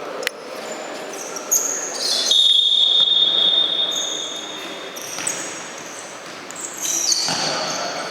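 Indoor futsal play: shoes squeaking on the court and sharp knocks of the ball. One long, steady, high squeal lasts about two and a half seconds near the middle.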